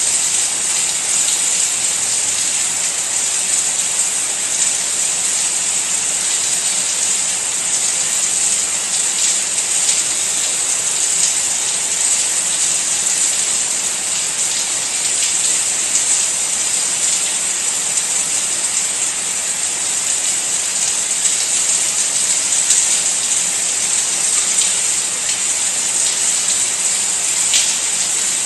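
Steady rain: an even, dense hiss with scattered drop ticks, one sharper tick near the end.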